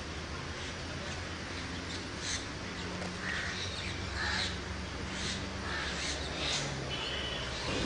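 Birds calling at a wetland: a series of short calls about a second apart, over a steady background hiss.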